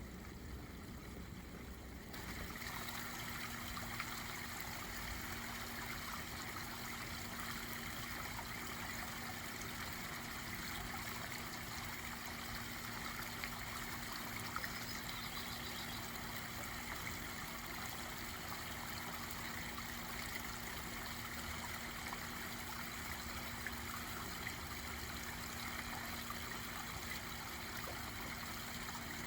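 Backyard pond waterfall running, a steady trickling stream of water. About two seconds in it grows slightly louder and a faint steady hum joins it.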